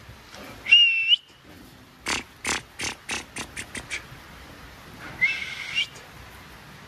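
Two short whistles, the second rising in pitch, with a quick run of sharp chirping strokes, about five a second, between them.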